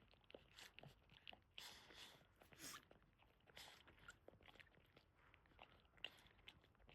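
Boston terrier mother licking and mouthing her newborn puppies: faint, irregular wet licks, smacks and small clicks, busiest between about one and a half and three seconds in.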